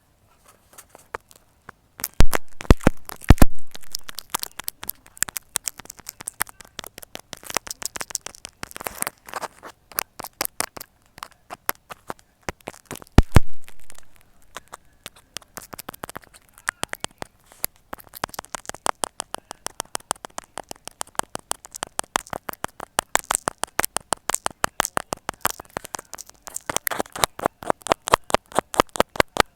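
Close-miked ASMR needle sounds: a needle pokes repeatedly into and through a material, making rapid crisp clicks and crackles several times a second, with a few louder pops about two to three seconds in and again near the middle.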